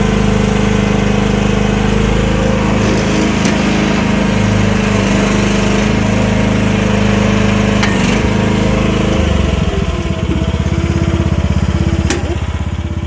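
The 15 hp gasoline engine of an AGT 1-ton mini excavator running steadily at raised throttle. About nine seconds in, the engine note drops lower and turns into an uneven pulsing.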